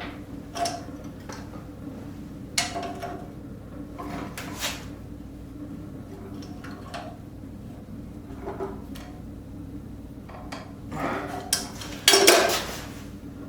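Hammer striking a hot railroad spike on an anvil in scattered, irregular metallic knocks that straighten the bent piece. The loudest, longest clang comes near the end, over a steady low hum.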